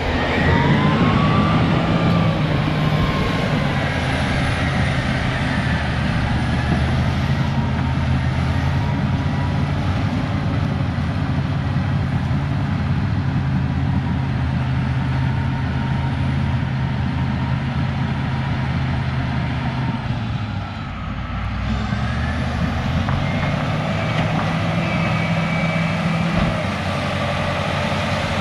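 Cat D6H bulldozer's diesel engine running steadily under load, pushing over trees, with a brief dip in engine speed a little past two-thirds of the way through before it pulls back up.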